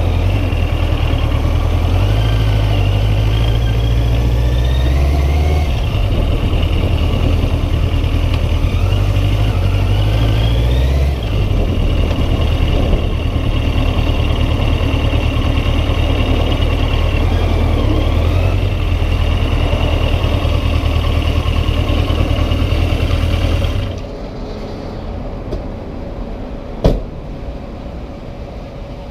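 Yamaha XJ900 inline-four motorcycle accelerating through the gears, its pitch climbing and dropping back at each change, under heavy wind buffeting on the microphone. About 24 seconds in the sound falls to a much quieter level, and a single sharp click comes near the end.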